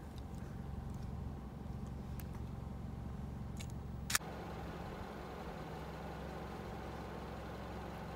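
Vehicle engine idling with a steady low hum. One sharp click sounds a little past four seconds in.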